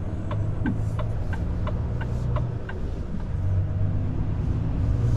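Volvo FH truck's diesel engine running steadily at cruise, heard from inside the cab as a low hum. During the first half a run of about eight light, evenly spaced ticks, about three a second, sounds over it.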